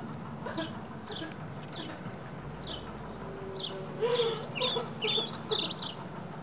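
A small bird chirping outside in short, high, falling chirps, about one a second, breaking into a quicker flurry of chirps about four seconds in. A low steady hum runs underneath.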